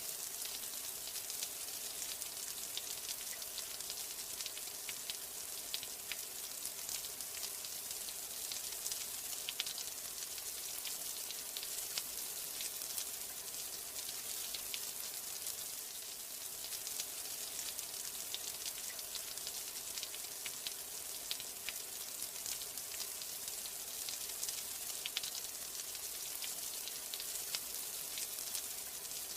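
Steady rain, a dense even hiss with the patter of many individual drops ticking through it.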